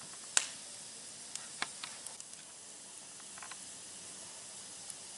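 Wood campfire, built as an upside-down log tower, burning with a steady hiss and sharp crackles and pops, the loudest about half a second in.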